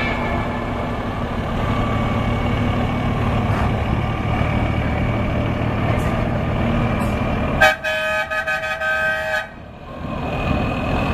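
Truck engines running with horn tones, then a loud truck air horn blast lasting about a second and a half, roughly eight seconds in.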